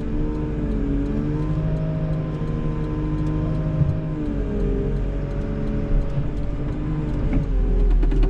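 Diesel engine of a CAT 906 wheel loader running, its pitch rising and falling as the revs change.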